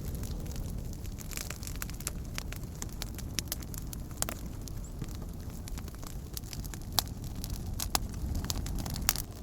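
Wood campfire crackling, with many sharp pops and snaps over a low, steady rumble; the loudest pops come about 7, 8 and 9 seconds in.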